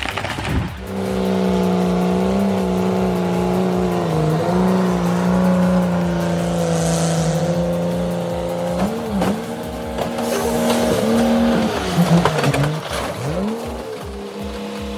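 A small engine running steadily at high revs, its pitch dipping and rising briefly around the middle and again near the end, over a faint music beat.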